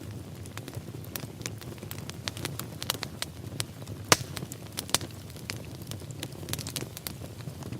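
Wood fire burning in a fireplace: a steady low rumble of flames with frequent sharp, irregular crackles and pops, the loudest pop about four seconds in.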